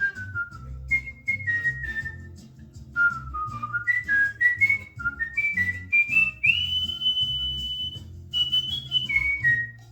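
Cockatiel whistling a tune: a run of short stepped notes that fall, then climb, then one long held high note about two-thirds of the way in, followed by a few falling notes. A low hum runs underneath.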